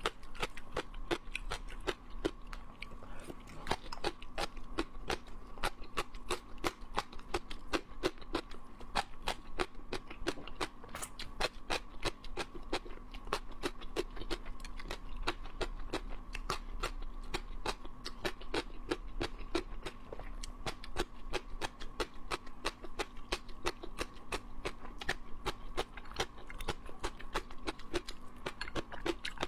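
Close-miked crunching and chewing of long, crisp green vegetable strips: a dense run of sharp crunches, several a second.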